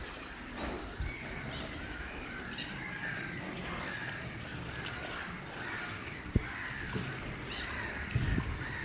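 Many wetland birds calling at once, short curving calls overlapping throughout, with a sharp knock about two-thirds of the way through and a few more near the end.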